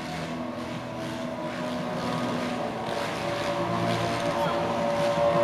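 Several motocross bike engines racing on the track at once, their overlapping steady engine notes getting louder toward the end.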